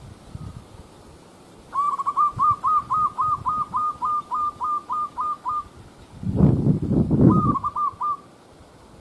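A bird calling: a quick, even run of about fifteen short piping notes, roughly four a second, then a brief break and four more. A loud low rumble comes in between, just before the last notes.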